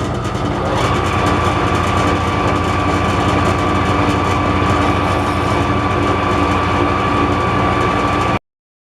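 Metal-cutting machine tool running steadily while taking a cut, with a low hum and a steady high whine; it cuts off suddenly near the end.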